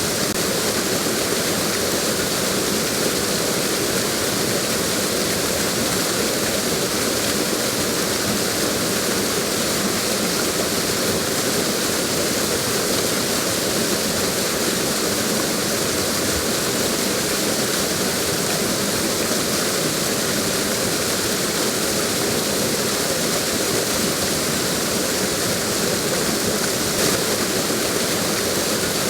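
Waterfall: water cascading over a drop, a steady, even rush with no breaks.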